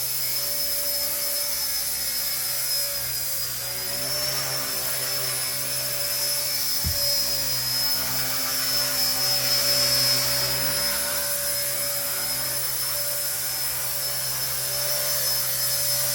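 RC ERA 1/48-scale Huey micro RC helicopter running: a steady, high electric-motor whine over a low rotor hum. A brief low thud sounds about seven seconds in.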